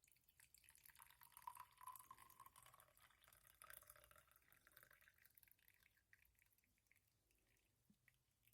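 Liquid being poured into a container for about six seconds, its pitch rising as the container fills.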